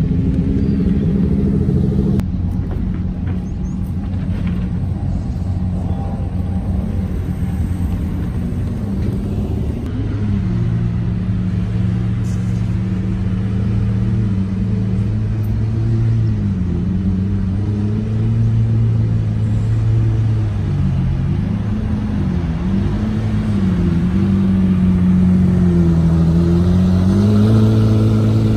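Lamborghini V10 engines (a Huracán Performante, then Gallardos) running at low speed as the cars creep past, a steady deep engine note. In the second half the revs dip and rise several times, and the note swells near the end as a Gallardo pulls closer.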